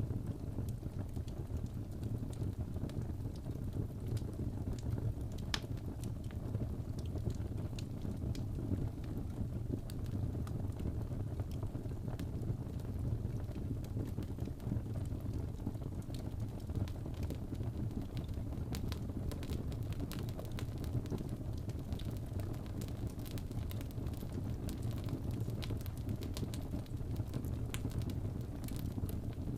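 Wood fire burning in a fireplace: a steady low roar of the flames with scattered sharp crackles and pops, more frequent in the second half.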